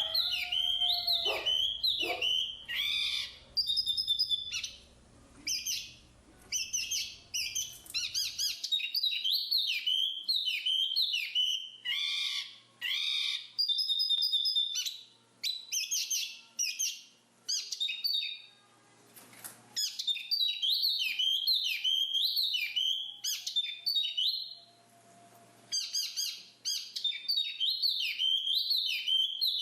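Black-capped babbler singing: rapid, varied high chirping phrases in bursts of a few seconds, broken by short pauses.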